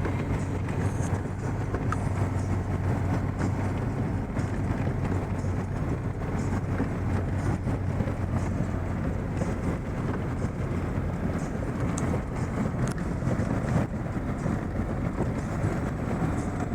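Chevrolet Niva driving through snow on studded winter tyres: a steady low engine and rolling rumble.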